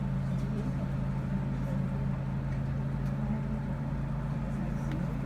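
Steady hum and drone of a stopped Enoden electric railcar's onboard equipment, heard from near the driver's cab.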